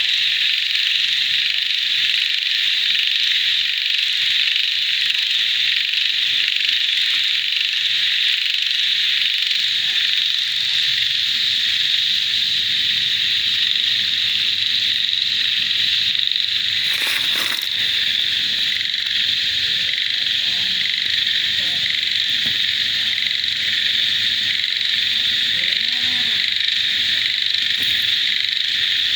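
Dense, steady chorus of frogs and insects calling together: a continuous high-pitched trilling wall of sound with scattered lower frog croaks beneath it. A brief rustle-like noise breaks in about halfway through.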